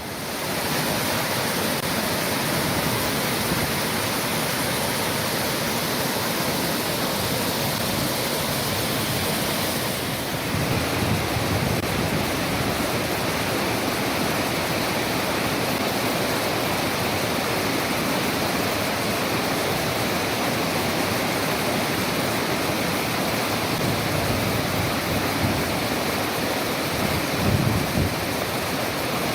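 Steady rush of a waterfall, a dense even roar of falling water. Its sound changes slightly about ten seconds in.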